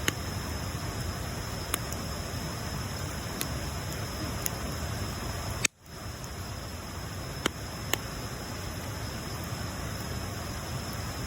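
Bonfire burning: a steady hiss with a few sharp, scattered pops of crackling wood. The sound drops out for a moment about halfway through.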